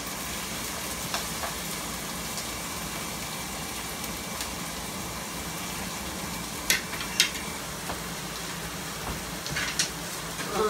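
Beef steak sizzling steadily as it fries in a pan, with a few sharp clicks now and then.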